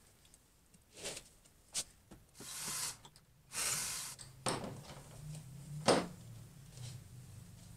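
Clicks, knocks and short rustles of tools and parts being handled, with a low steady hum setting in about halfway through.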